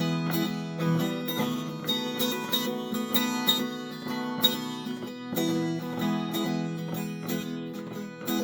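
Acoustic guitar strumming chords in a steady rhythm: an instrumental break with no singing.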